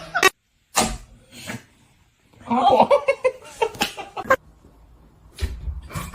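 A person laughing in a short burst about two and a half seconds in, among a few brief clicks and knocks.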